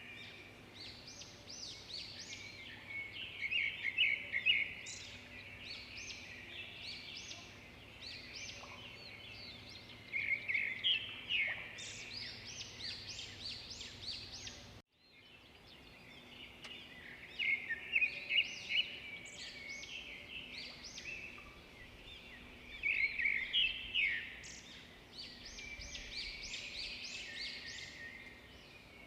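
Wild birds calling and singing in a dense chorus of quick chirps and trills, swelling into louder clusters every few seconds. The chorus breaks off for a moment about halfway through.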